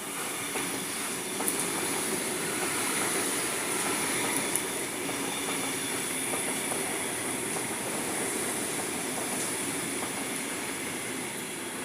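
Sydney Trains Tangara electric train running through the station without stopping, with its wheels making a steady running noise on the rails and a few faint clicks.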